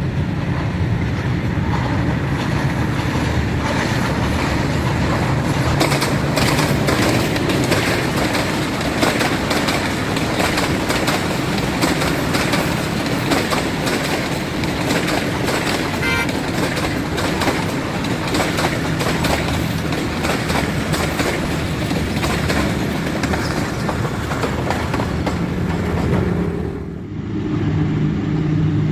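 A diesel passenger train passing close by: the locomotive's engine runs steadily while the wheels clatter over the rail joints, the clatter busiest between about 6 and 14 seconds in.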